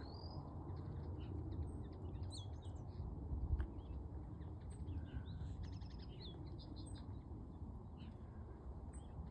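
Several small songbirds chirping and singing in short high phrases and quick trills, over a steady low rumble.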